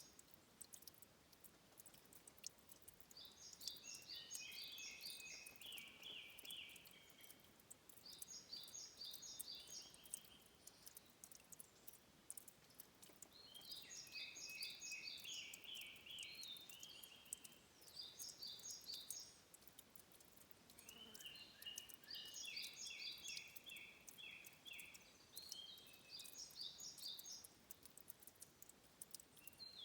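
Faint songbird song: bursts of rapid, evenly repeated high notes every few seconds, some phrases dropping to a lower run of notes, over a faint patter of trickling water with tiny high drips.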